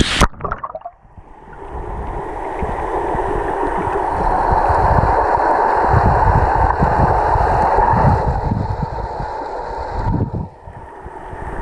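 Muffled rush and gurgle of waterfall water heard with the microphone underwater: the bright hiss of the falls cuts off about a quarter second in as it goes under, and a dull rushing, rumbling water noise then builds and holds.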